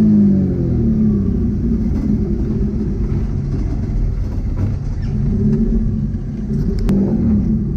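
Twin-engine, twin-turbo Mazda MX3 with its engine note falling off just after the start as the revs drop, then running at a lower, steady rumble. A brief click comes near the end.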